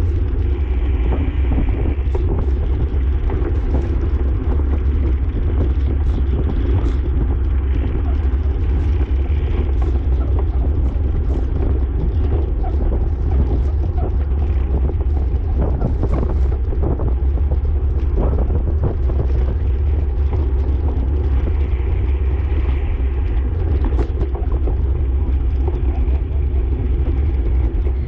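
Steady wind rumble buffeting the microphone of a camera riding on a racing bicycle at speed, with road and tyre noise underneath.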